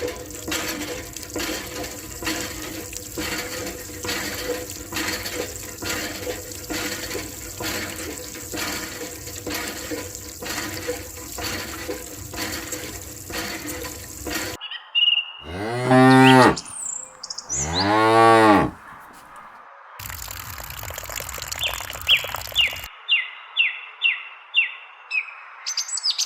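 A cow mooing twice in the middle, two long calls that rise and fall in pitch; these are the loudest sounds. Before them runs a steady rhythmic beat, and near the end comes a quick run of about seven short, high chirps.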